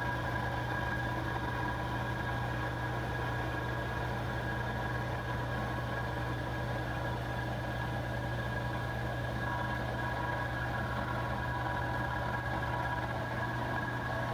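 Milling machine spindle running steadily at about 1,000 RPM, a constant motor hum with a faint high whine, while an edge finder is used to locate the workpiece edge.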